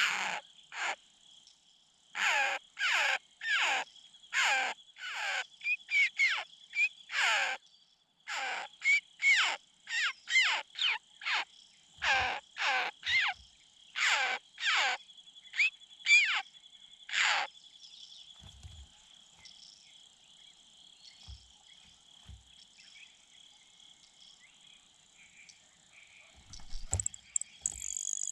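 A bird giving a long series of loud, harsh, caw-like calls, about one to two a second, which stop after about 17 seconds, over the steady high chirring of crickets or other insects.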